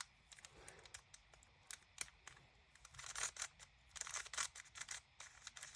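GAN maglev speedcube being handled and adjusted: quick, light plastic clicks and clacks, coming in a denser cluster about three to four seconds in.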